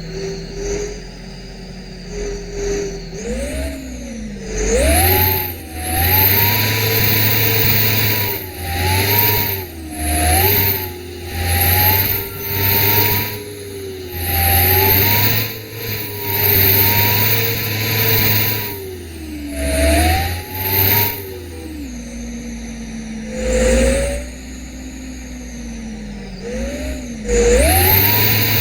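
Truck engine being revved in repeated short bursts of throttle: its pitch rises and falls about a dozen times, then settles lower and steadier for a few seconds near the end before one last rev.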